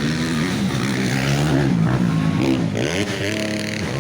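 Dirt bike engines revving, several at once, their pitch rising and falling, with a drop and a climb again around three seconds in.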